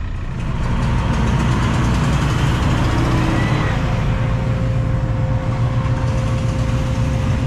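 Excavator's diesel engine picking up about a second in and running steadily, with a thin steady whine joining about four seconds in.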